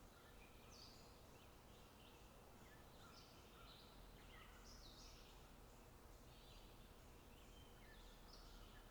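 Faint outdoor ambience of birds singing, a steady run of short chirps and trills, over a low, even background hiss.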